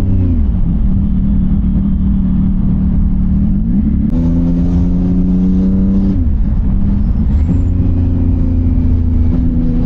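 CFMOTO 675NK's inline three-cylinder engine through a titanium full-system exhaust, rolling on and off the throttle at low speed. It drops back near the start, picks up and holds for about two seconds around the middle, falls away, then pulls again for about two seconds near the end.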